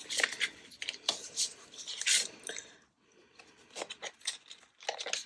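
Handwork on paper: irregular short scratchy strokes and light clicks, with a quieter stretch in the middle.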